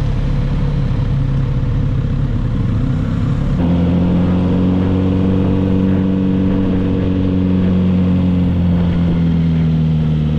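Kawasaki Z900RS inline-four engine running steadily under way, heard from the bike. About a third of the way in the sound changes abruptly, and the engine note then sinks slowly as the revs ease off.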